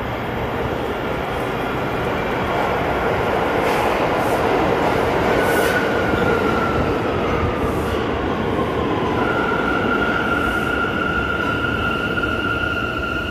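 New York City Subway train pulling into the station and braking: a loud rumble that swells, a high whine falling in pitch as it slows, then a steady high squeal as it comes to a stop.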